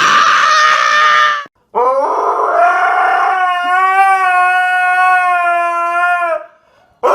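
A dog howling: a short cry, then one long, steady howl lasting about four seconds, and another howl starting near the end.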